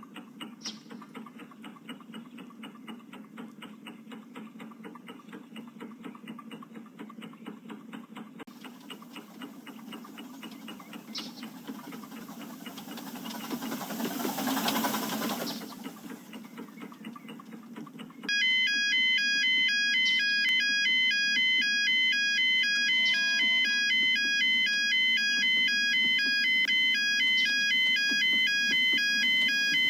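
A miniature live-steam engine chuffing in a fast, even beat, rising to a loud hiss of steam about halfway through. About two-thirds of the way through, music starts: a bright, repeating chime-like melody.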